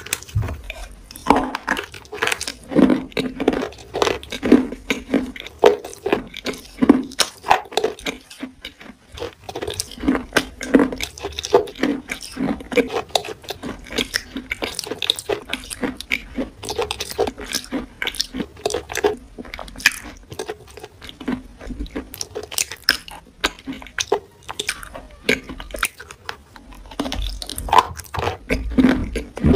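Close-miked wet crunching and chewing of a grey, chalky material bitten from a flat stick, many quick crackling bites and squelchy chews in an irregular run.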